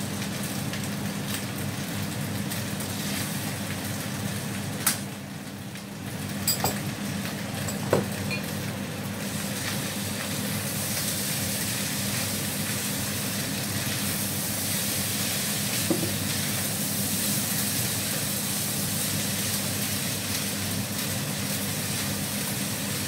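Fried rice sizzling in a non-stick wok on an induction cooker as it is stirred and tossed with a spatula, the sizzle getting brighter about ten seconds in. A few sharp clicks of the spatula against the pan, over a steady low hum.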